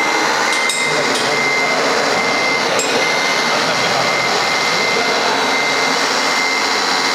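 Radio-controlled scale model bulldozer running: a steady electric whirr with a thin high whine that keeps cutting in and out, and a few faint clicks.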